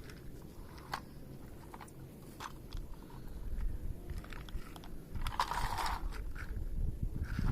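Backhoe loader at work: a low diesel engine rumble with scattered crunching and clicking, and a brief louder rush a little past the middle.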